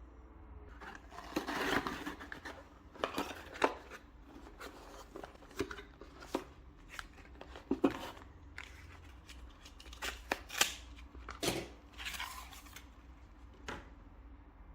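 Handling of the kit and its packaging: irregular rustling of plastic and cardboard with sharp clicks and knocks as parts are picked up and set down.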